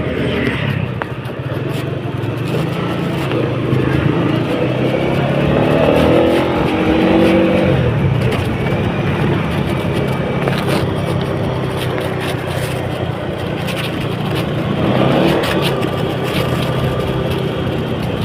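A motor vehicle engine running steadily, with its pitch rising and falling around six to eight seconds in and again around fifteen seconds in.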